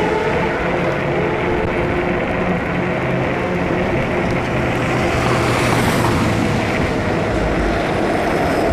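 Street traffic noise: a steady motor drone with road and tyre noise, swelling about five to six seconds in as a vehicle passes.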